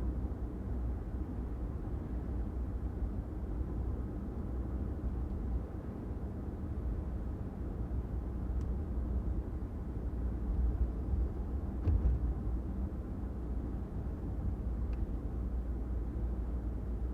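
A car driving along a city street: steady low rumble of engine and tyres on the road, with a few faint ticks and a light knock about twelve seconds in.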